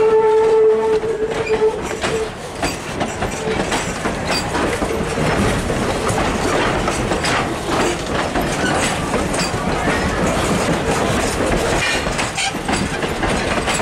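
Railroad passenger coaches rolling past at low speed, their wheels clicking over the rail joints. A sustained steady tone sounds for about the first two seconds and comes back faintly now and then.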